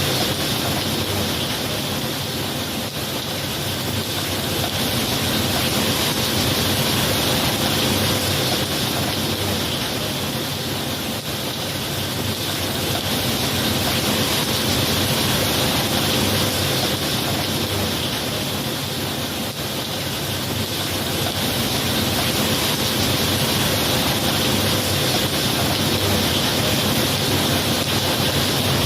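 Steady heavy rainfall, a continuous dense hiss that slowly swells and eases every several seconds.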